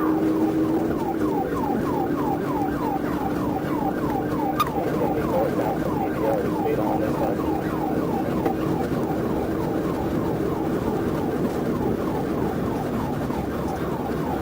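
Police car siren in a fast yelp, a quick falling wail repeating about three times a second, over steady vehicle and road noise.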